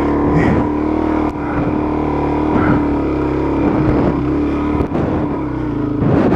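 Dual-sport motorcycle engine held at steady high revs, then dropping off sharply at the very end.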